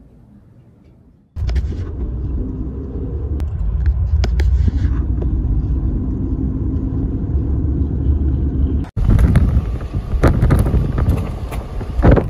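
A loud, steady low rumble starts suddenly about a second and a half in. After an abrupt cut near the end it gives way to gusty wind noise buffeting the microphone, with sharp knocks.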